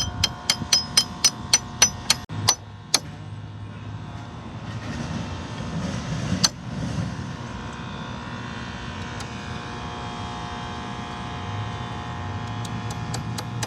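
Horizontal directional drill rig's engine running steadily, with a quick run of sharp metallic clicks, about four a second, in the first three seconds. One louder metal knock comes midway, and a few lighter clicks near the end.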